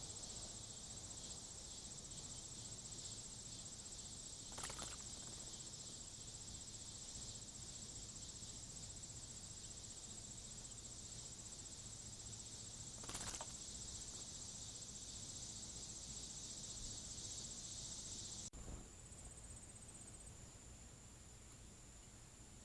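Steady, high-pitched chorus of insects. About two-thirds of the way through it drops suddenly to a single thinner, quieter trill. Two brief sharp sounds stand out, one near the start and one in the middle.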